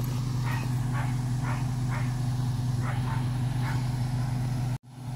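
2007 Ram 1500 pickup's engine running at a steady idle, with a dog barking in short yips about seven times over the first few seconds. The sound cuts out for a split second near the end.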